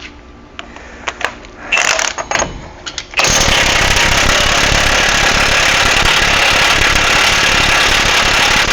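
A few light metal clinks as a socket is fitted, then about three seconds in an impact wrench starts up and runs steadily and loudly on the axle nut, rattling without letup.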